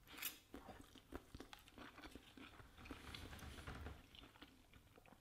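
Faint chewing of a forkful of teriyaki salmon and vegetables, with small soft clicks of the mouth and jaw.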